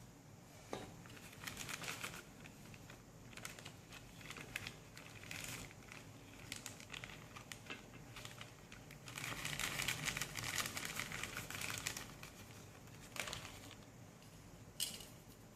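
Cake flour being sifted through a mesh sieve: faint, irregular light scratching and tapping. It gets busier for a few seconds in the middle.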